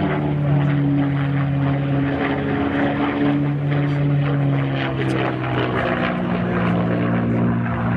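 P-51 Mustang's V-12 piston engine at high power as the fighter makes a low, fast pass. The propeller-driven engine note is loud and steady, drops in pitch about halfway through, then rises again.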